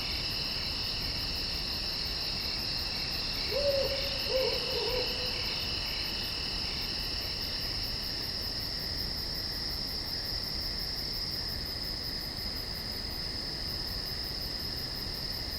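Night chorus of crickets: a steady high-pitched chirring, with a second pulsing trill beneath it that fades out about halfway through. About three and a half seconds in come two short low hoots, each dipping slightly in pitch.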